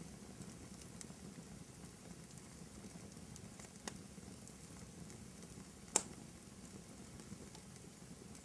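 Wood fire burning in a fireplace, crackling softly over a low steady rumble, with scattered small ticks, a pop a little before four seconds in and a sharper, louder pop about six seconds in.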